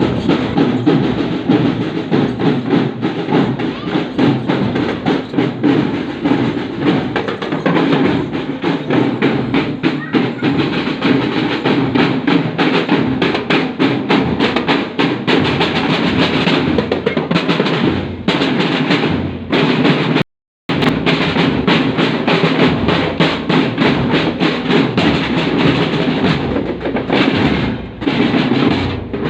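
A marching drum band's percussion section practising: snare and bass drums playing a fast, continuous beat with rolls. The sound breaks off completely for a moment about twenty seconds in, then carries on.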